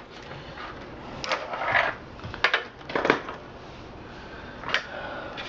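Handling noises: a few sharp, scattered clicks and knocks with some rustling between them, as hands work with computer parts.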